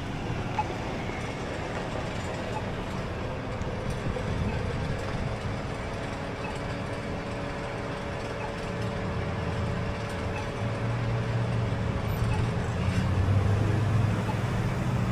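Road traffic heard while riding: a steady hum of vehicles, with a low engine sound growing louder over the last few seconds.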